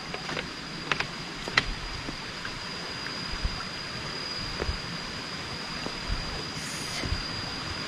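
Rushing stream water, a steady noise that grows a little louder, with a few sharp clicks in the first two seconds and a faint steady high-pitched tone throughout.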